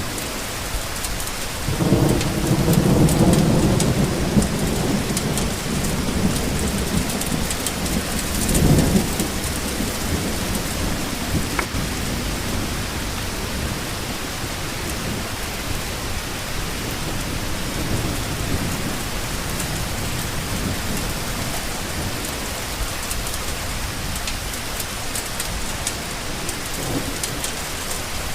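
Steady rain falling, with thunder rumbling low about two seconds in for a few seconds and again briefly about nine seconds in.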